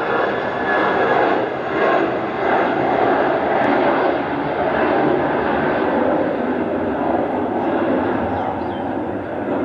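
Jet airliner engines at takeoff power, a loud steady rushing noise with faint whining tones in it, easing slightly near the end.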